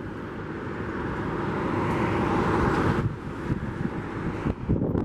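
Jet airliner on landing approach, its engine roar swelling as it comes close, then dropping away abruptly about three seconds in. Gusty wind buffets the microphone throughout.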